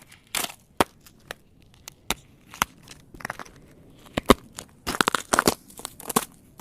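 Ice cracking and crunching: scattered sharp snaps, the loudest about four seconds in, then a dense run of crackling crunches near the end.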